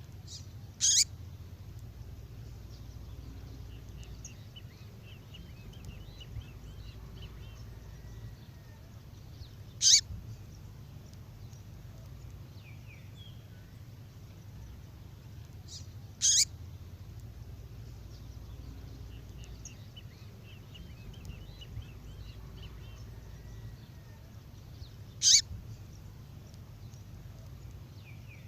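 Female songbird call: four short, sharp calls spaced several seconds apart, with faint twittering between them over a steady low hum.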